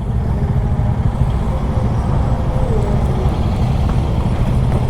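Single-cylinder KTM 390 Adventure motorcycle running steadily at road speed, its engine rumble mixed with wind noise on the camera microphone.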